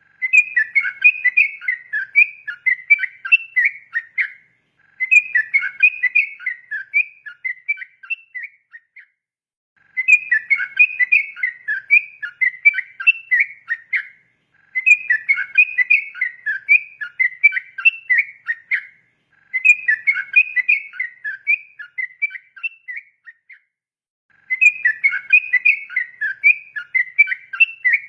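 Yellow-vented bulbul (trucukan) singing a fast, bubbly warbling song of quick notes in repeated bouts of about four seconds, with short pauses between bouts.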